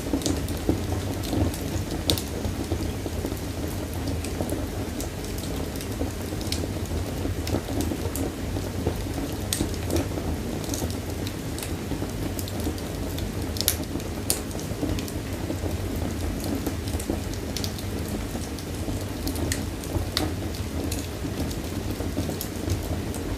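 Wood fire burning in a fireplace: a steady low rush under irregular, sharp crackles and pops from the burning wood.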